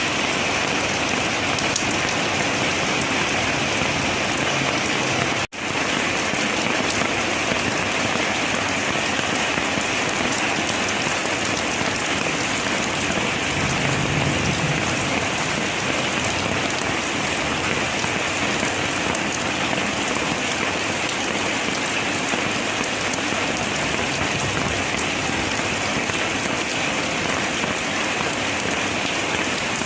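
Rain falling steadily, an even hiss of drops. The sound cuts out for a split second about five and a half seconds in, then resumes unchanged.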